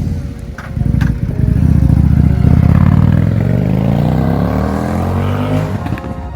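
Car engine revving and accelerating, its pitch rising steadily for about three seconds before it cuts off near the end.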